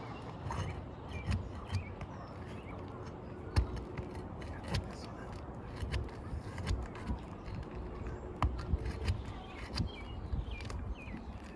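Scattered clicks, taps and scrapes of a metal roofing tool working under asphalt shingles to pull their nails, with a sharper knock about three and a half seconds in.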